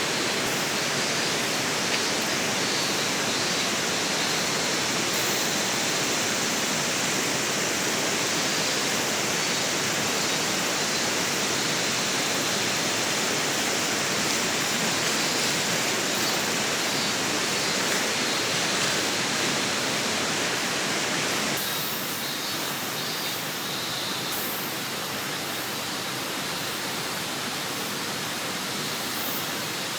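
River water rushing steadily, an even noise. About two-thirds of the way through it becomes a little quieter.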